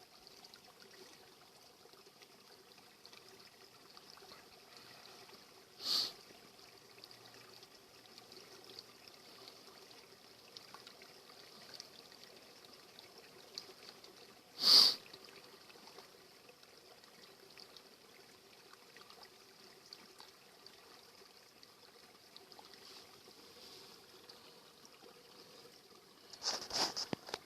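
Faint, steady trickle of flowing water, with two short, loud bursts of noise about six and fifteen seconds in and a flurry of noise near the end.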